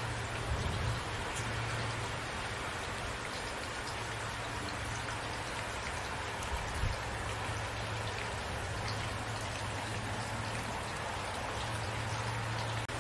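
Steady rain: an even hiss with individual raindrops ticking through it. Two brief low thuds come about half a second in and again near seven seconds.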